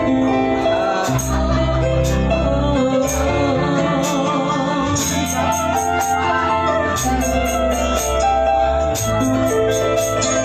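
Band music with a steady bass and a melody line, over which a hand tambourine's jingles are struck in rhythm, often in quick runs of several hits.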